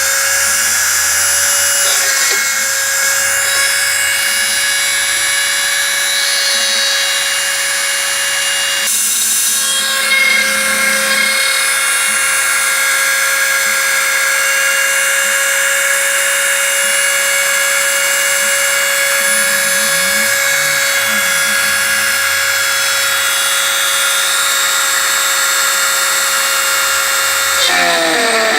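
Homemade CNC router's spindle running with a steady high whine as its cutter machines 3 mm aluminium sheet dry, without coolant or lubrication, the metal-cutting noise layered over the spindle.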